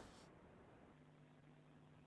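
Near silence: a faint, steady hum on the phone line between lines of speech.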